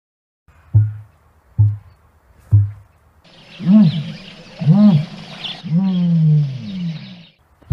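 Ostrich calls: three short deep booms about a second apart, then three longer pitched calls that rise and fall, with a hiss behind the later ones.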